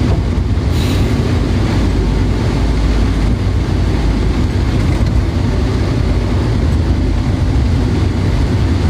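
Steady low rumble with a lighter hiss, unbroken and even, like the cabin noise of a moving vehicle.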